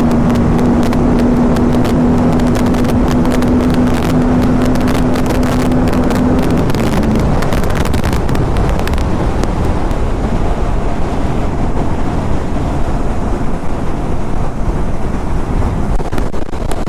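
Aprilia RS 457 parallel-twin motorcycle riding at speed on the highway, with wind rushing over the microphone. A steady engine hum runs under the wind noise and drops away about seven seconds in.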